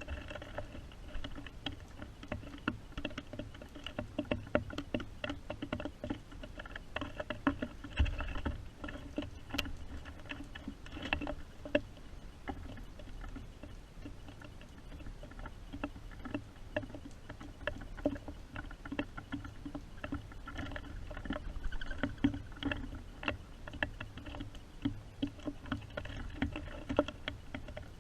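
Rain pattering steadily, with many irregular taps and drips.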